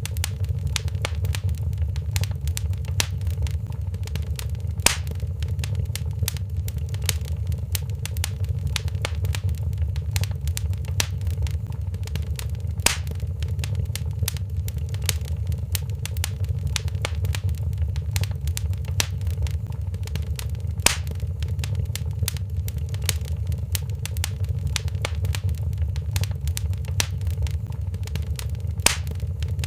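Crackling wood fire in a fireplace: a constant low rumble under a dense stream of small crackles, with four louder pops about eight seconds apart.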